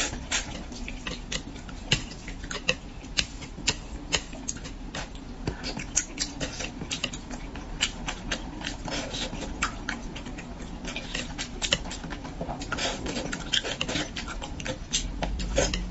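Close-up wet chewing and mouth sounds of someone eating braised fish: many irregular sharp smacks and clicks.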